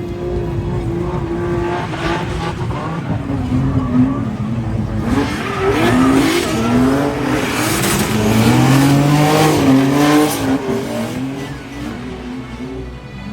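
Two drift cars sliding in tandem, their engines revving up and down as the throttle is worked, with tyre squeal and hiss. It grows loudest in the middle as they pass and fades near the end.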